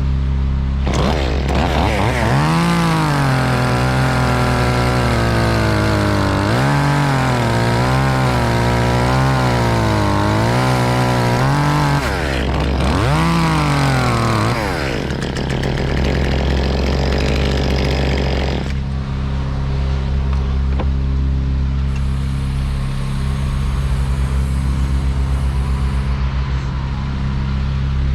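Chainsaw cutting wood, its pitch rising and sagging again and again under load for roughly fourteen seconds before it drops away. A steady low engine hum runs underneath throughout.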